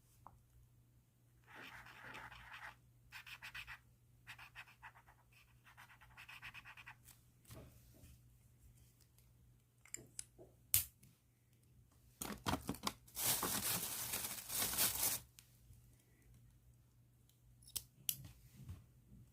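Pen nib scratching on paper in short strokes, then a louder stretch of rapid back-and-forth scribbling for about three seconds. A few sharp clicks come before and after it.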